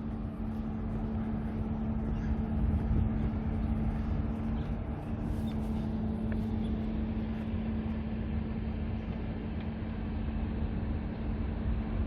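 Steady outdoor traffic rumble with a constant low hum running underneath.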